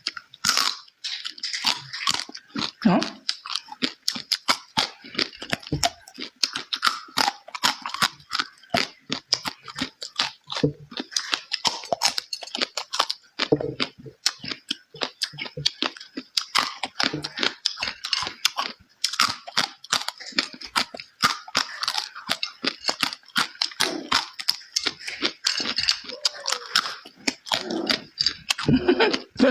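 Close-miked eating: continual wet chewing and crunching of food, with smacking mouth clicks.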